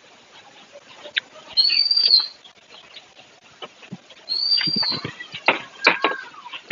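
A bird repeating a short, high whistled call that rises and falls, about every two and a half seconds. About two-thirds of the way in come sharp knocks and clatter as plastic buckets are set down.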